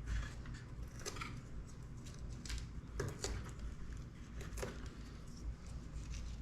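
Light clicks and handling sounds of hand work on the drone's motor wiring, about half a dozen sharp ticks spread irregularly, over a steady low hum.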